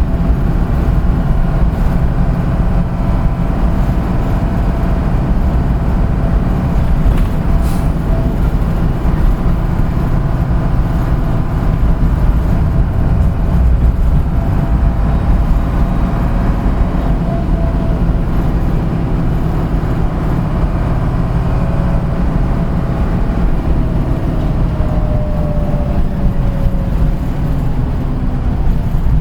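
Route bus heard from inside while driving: a steady low engine and road rumble, with the engine's pitch falling over the last few seconds as it slows.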